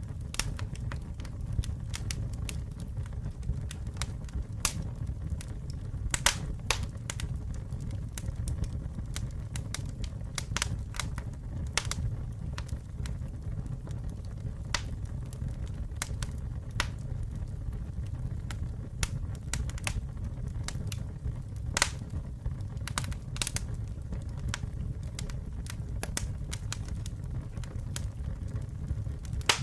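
Campfire burning: a steady low rumble of the flames with irregular sharp crackles and pops of burning wood, a few louder snaps among them.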